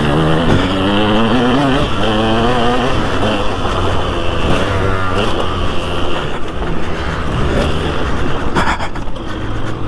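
2003 KTM 200 SX two-stroke motocross engine under hard riding, its pitch climbing again and again as it is revved up through the gears and dropping back between.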